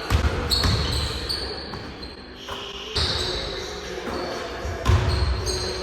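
Basketball bouncing on a gym floor during a dribbling and finishing drill, a few irregular heavy thuds with a short echo after each.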